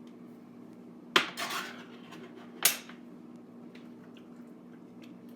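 Kitchenware clattering: a sharp knock, a brief rattle right after it, then a second knock about a second and a half later, over a steady low hum.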